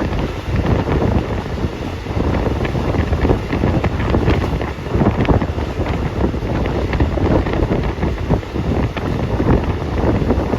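Wind buffeting the microphone: a loud, steady rush with constant irregular crackling.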